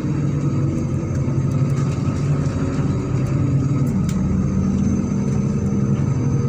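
MAZ-103 city bus engine running under way, heard from inside the bus. The engine pitch drops a little more than halfway through, then climbs slowly again as the bus picks up speed. A few faint rattles come through.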